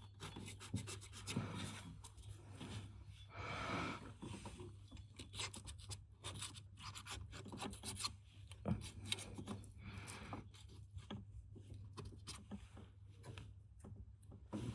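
Hand work on car parts: rubbing and scraping strokes with many scattered light clicks and taps, over a steady low hum.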